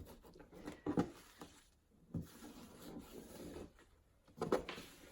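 Packaging being handled: scattered rubbing and rustling with a few soft knocks, the clearest about a second, two seconds and four and a half seconds in.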